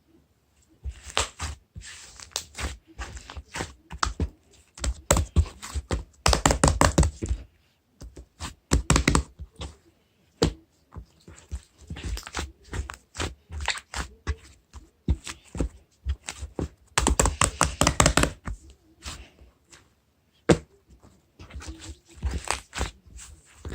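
Clusters of rapid tapping and knocking on a hard surface, with short pauses between the bursts.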